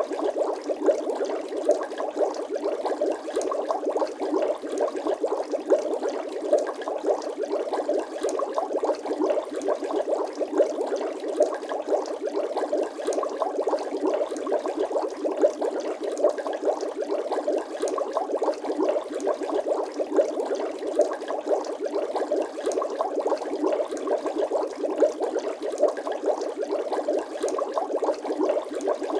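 Bubbling water sound effect: a dense, steady stream of small bubble pops.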